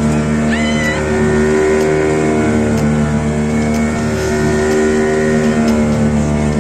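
Engine running steadily at a constant speed, a loud, even drone.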